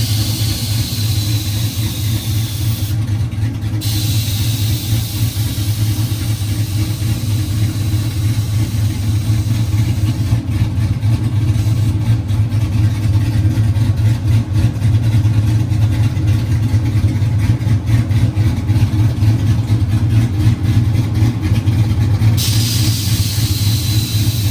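Pickup truck's engine running steadily with a deep, even rumble; its exhaust system is not yet finished.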